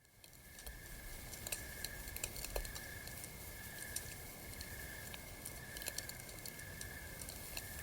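Campfire crackling with irregular small pops and snaps, over a steady high-pitched tone in the background; it fades in from silence at the start.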